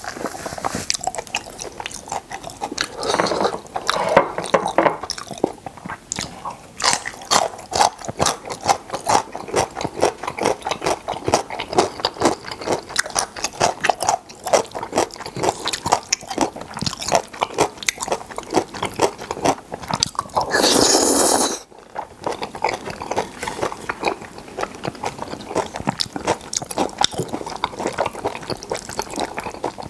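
Close-miked chewing of a mouthful of seafood jjajang noodles (black bean sauce noodles): a dense, irregular run of wet smacks and soft crunches. Around two-thirds of the way through comes one louder rush of noise lasting about a second.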